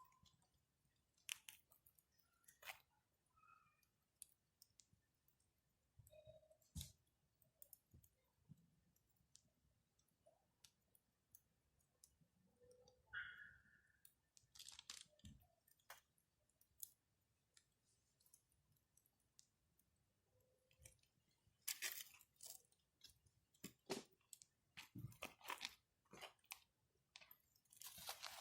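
Wood campfire crackling: scattered sharp pops and snaps, sparse through the middle and coming thicker over the last few seconds, with a few brief faint tones among them.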